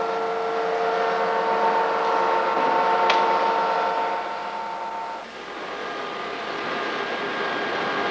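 Heavy machine-shop machine tool running, a steady whine made of several held tones, most likely machining a large engine part. About five seconds in it changes to a rougher, noisier hum, with a sharp click about three seconds in.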